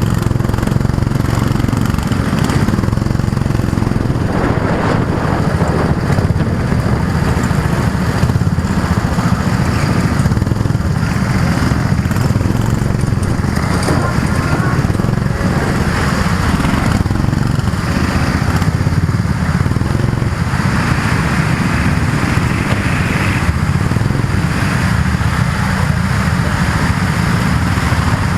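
Go-kart engine running steadily, its sound shifting every few seconds as the kart speeds up and slows.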